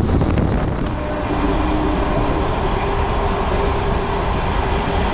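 Indian EMU local train running at speed, a loud steady rumble of wheels on rail. A steady hum sets in about a second in.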